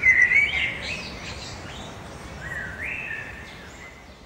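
A songbird singing short warbling whistled phrases, loudest at the start and again about two and a half seconds in, over a low steady outdoor background.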